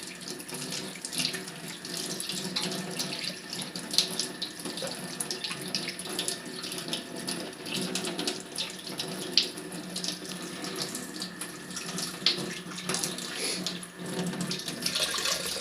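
Water running steadily from a tap into a sink, with irregular splashing as a small wild bird is washed under the stream.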